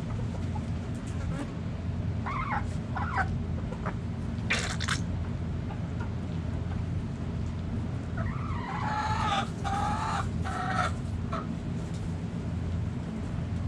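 Backyard chickens calling: two brief clucks about two to three seconds in, a short burst of noise near five seconds, then a longer drawn-out call in several parts from about eight to eleven seconds. A steady low hum runs underneath throughout.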